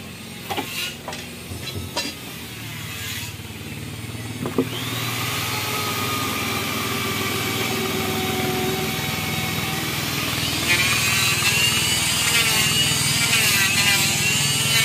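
A few sharp knocks, then a steady motor running and growing louder. Music with a wavering melody comes in about two-thirds of the way through.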